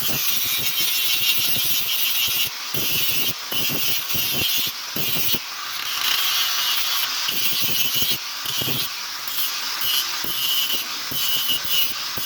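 Repeated rasping strokes of a hand tool working metal, each stroke a second or less, with light knocks in between.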